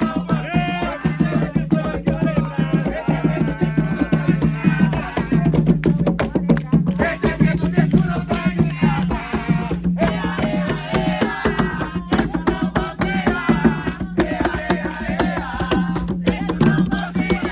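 Umbanda ponto music: fast, continuous hand-drumming on atabaques with voices singing over it.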